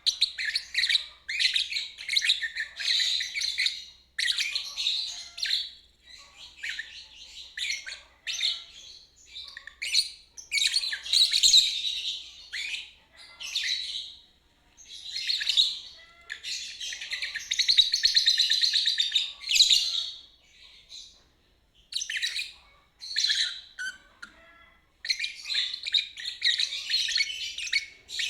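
Lovebird ngeriwik: long, fast, high-pitched chattering song delivered in phrases of one to several seconds, broken by short pauses. The longest phrases come about halfway through.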